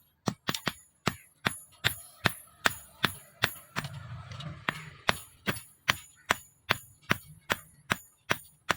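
Hammer blows on leaf-spring steel over an anvil, struck at an even pace of about two and a half a second, each with a bright metallic ring.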